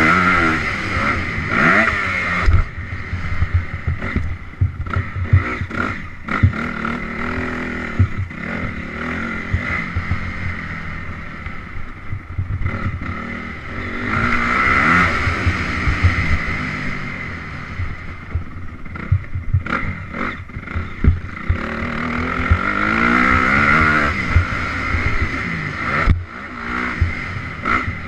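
Honda CRF 250R single-cylinder four-stroke dirt bike engine revving up and easing off again and again while being ridden, loudest near the start, about halfway through and near the end. Frequent sharp knocks and rattles run through it.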